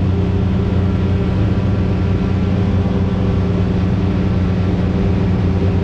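Side-by-side UTV engine running at a steady cruising speed on a paved road, heard from the cab, with tyre and wind noise over it.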